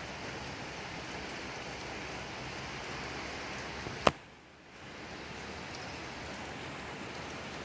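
Steady rain falling. About four seconds in there is a single sharp click, after which the rain sound drops away for under a second before returning.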